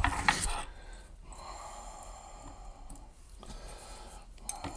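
A short breath or sigh close to the microphone at the start, then faint, steady room hiss.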